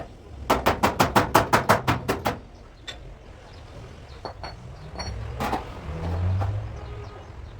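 A quick run of about a dozen sharp, evenly spaced hammer strikes on car-body sheet metal, about six a second, stopping after about two seconds. A low rumble follows, with one more single knock about five and a half seconds in.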